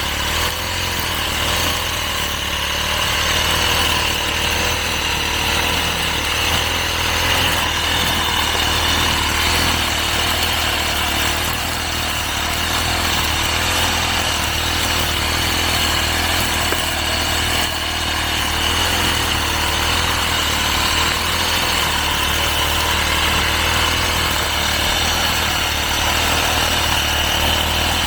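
Petrol brush cutter running steadily while cutting grass and weeds.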